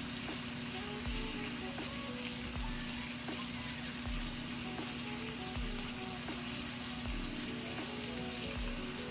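Potatoes frying in butter in a skillet, a steady sizzle, under quiet background music with a regular low beat.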